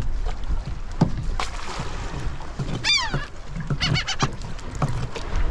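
Birds calling over the boat: a gliding, harsh call about three seconds in, then a short series of quick notes a second later, over a steady low rumble of wind and water, with scattered light clicks from the tongs and fish in the culling tray.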